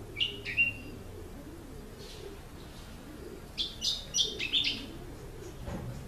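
Songbird chirping: two or three short high notes just after the start, then a quick run of about six chirps a little past halfway.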